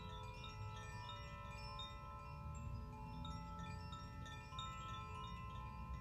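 Metal chimes ringing in a steady shimmer, new tones struck every fraction of a second and ringing on over one another, with a low rumble underneath.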